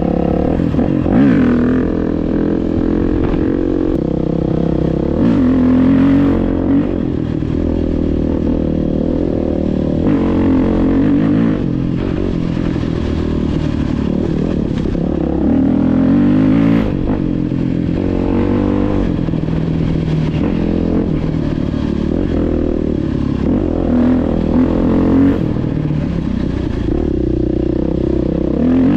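Dirt bike engine being ridden off-road, its revs rising and falling over and over as the throttle is worked, with some clatter from the bike over rough ground.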